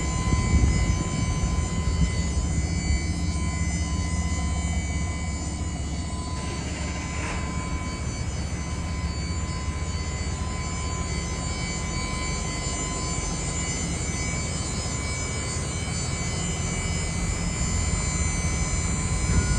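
Cummins B6.7 inline-six turbodiesel in a Ram 5500 dump truck, running steadily.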